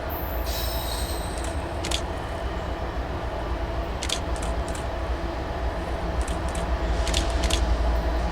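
Norfolk Southern freight train rolling past: a steady low rumble with a faint steady whine and scattered sharp clicks, growing slightly louder towards the end.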